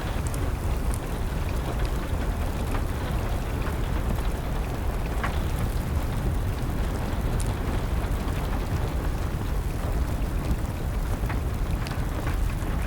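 Steady rain with a heavy low rumble under it, dotted with scattered sharp pops and crackles from a wood fire.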